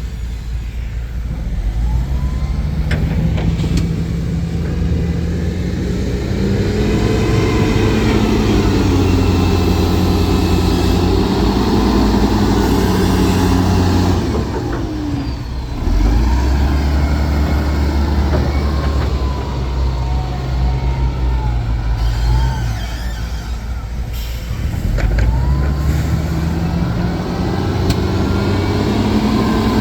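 Heavy diesel engine of earthmoving machinery working in sand, its revs rising and falling repeatedly as it runs under load, easing off briefly about halfway through and again near the end before climbing again.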